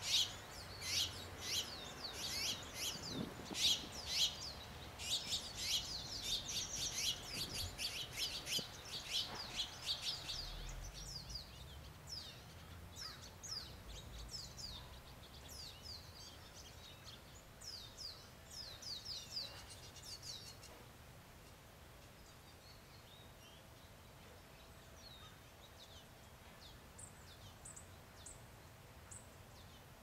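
Small birds chirping: many quick, high chirps that come thick and fast at first, thin out after about ten seconds, and die down to a few faint chirps near the end.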